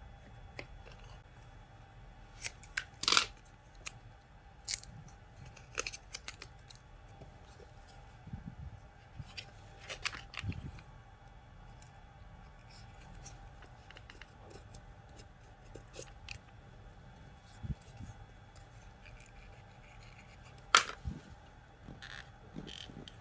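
Scattered clicks and clacks of small hard parts and hand tools being handled during disassembly or reassembly of a cordless angle grinder, with two louder clacks, one about three seconds in and one near the end.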